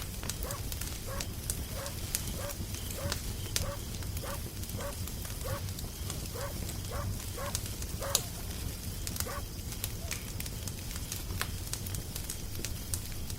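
Crackling fire, with sharp pops and snaps over a low rumble. Over it, an animal gives a short pitched call about twice a second, stopping about two-thirds of the way through.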